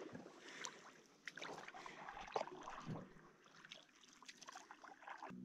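Canoe paddles dipping and splashing in the river, faint irregular strokes and drips.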